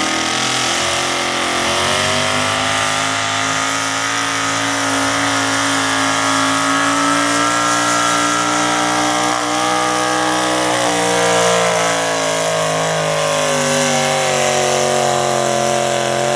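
Super stock two-wheel-drive pulling truck's engine running wide open under load as it drags the sled. It holds high revs for the whole run, its pitch wavering slowly up and down.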